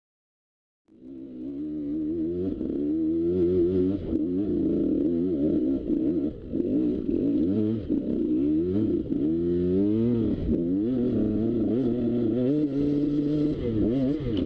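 Two-stroke dirt bike engine running while riding on a trail, its pitch rising and falling as the throttle opens and closes. The sound cuts in about a second in, out of silence.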